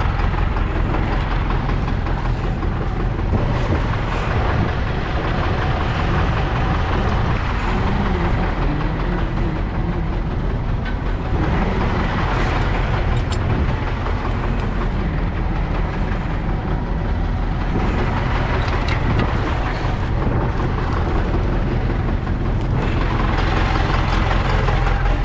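Engine of a heavy farm vehicle running steadily throughout.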